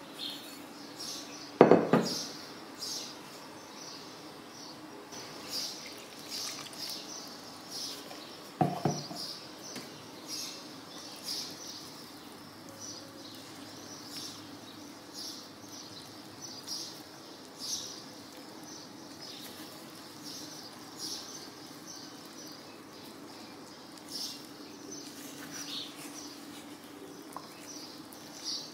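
A spatula stirring flour and liquid into a dough in a glass bowl: short scraping squeaks repeat irregularly throughout. Two louder knocks come, one about two seconds in and one near nine seconds.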